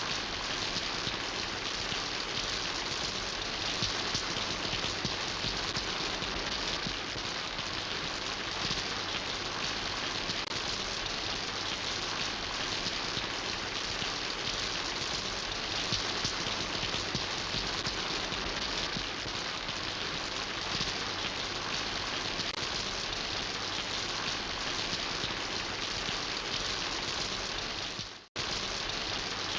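Steady rain falling as a dense, even patter with no single drops standing out. It cuts out for a fraction of a second near the end and comes straight back.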